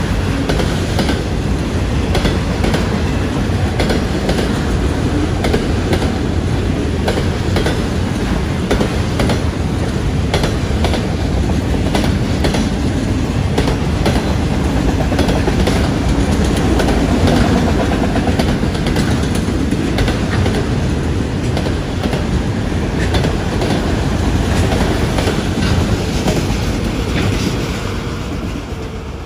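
CSX freight train of autorack cars rolling past close by: a steady rumble with the wheels clicking over the rail joints. It fades near the end as the last car passes.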